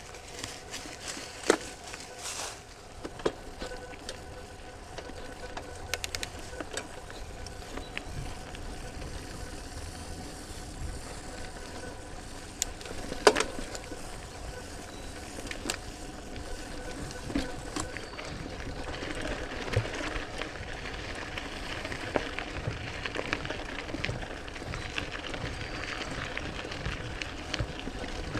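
Trek Mamba mountain bike rolling over a dirt trail: a steady rumble of the tyres with scattered sharp rattles and knocks from the frame and drivetrain over bumps, the two loudest about a second and a half in and again near the middle.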